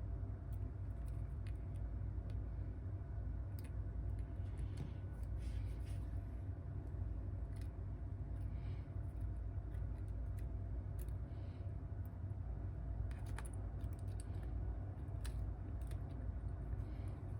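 Light scattered clicks and a few soft scrapes of small repair tools working on a phone, over a steady low hum.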